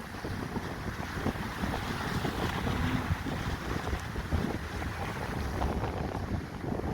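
Strong wind buffeting the microphone: a steady rush with uneven low gusts.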